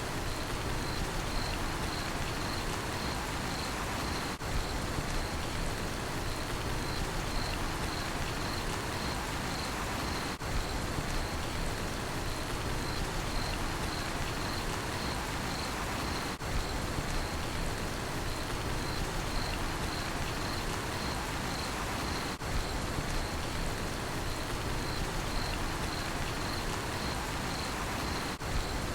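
Steady rainfall with a cricket chirping in an even, pulsing rhythm at a single high pitch.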